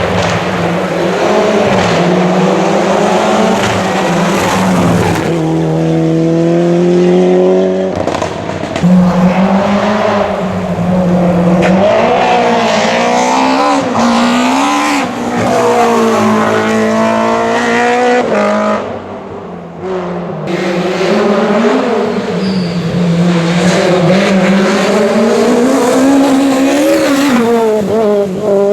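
Historic rally car engines running loud and hard on a stage, the pitch climbing and falling repeatedly as the drivers accelerate, lift and change gear. The sound briefly dips about two-thirds of the way through, then picks up again.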